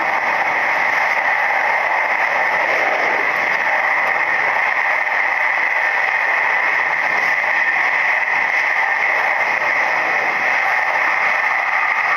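Steady running noise of a Nishitetsu 3000 series electric train, heard from inside the passenger cabin as it rolls along the line.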